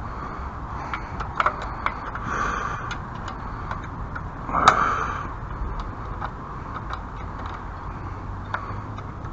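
Scattered clicks and short scraping sounds from hand tools working a fastener that won't tighten down, with one louder click a little before the middle.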